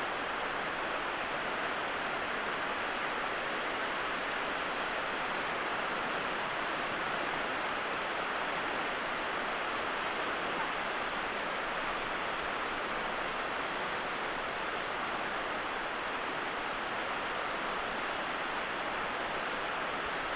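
Steady rushing of water: an even hiss that holds level throughout, with no distinct events.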